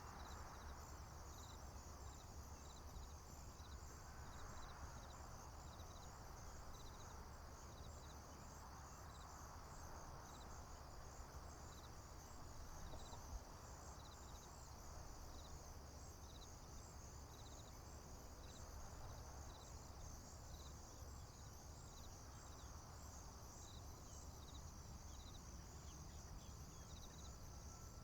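Faint insect chorus: crickets chirping in short, repeated pulses over a continuous high trill, with a soft low rumble underneath.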